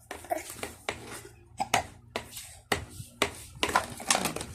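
Toys being handled and knocked together: an irregular clatter of sharp knocks, about two a second.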